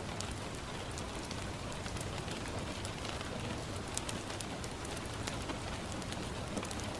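Steady rain falling on a window, a constant hiss, mixed with a crackling wood fire that gives scattered sharp pops and ticks.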